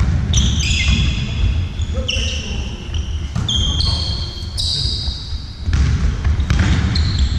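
Trainers squeaking on an indoor court floor: a run of short, high squeaks one after another, over the low thuds of a ball bouncing and players' voices in a large hall.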